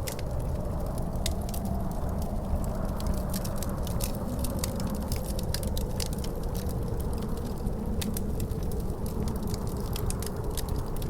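Wood fire crackling in a fireplace with many small irregular pops, over a steady low rumble of wind with a faint howl that slowly wavers in pitch.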